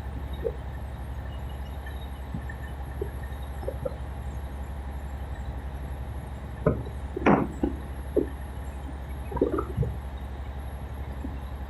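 A tugboat's diesel engine running with a steady low drone and fast even pulse, with a few brief louder knocks and noises partway through.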